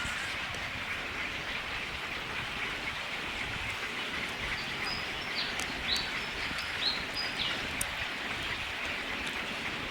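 A few short, high bird chirps around the middle, over a steady outdoor hiss.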